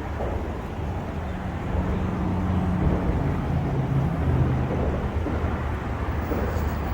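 Wind buffeting the microphone, with a low steady drone from a motor rising out of it for a few seconds in the middle.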